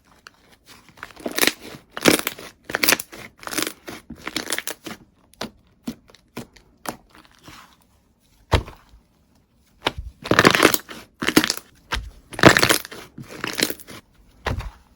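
Slime being squeezed and pressed, giving crunchy, crackling bursts in two busy stretches with a few scattered pops between them.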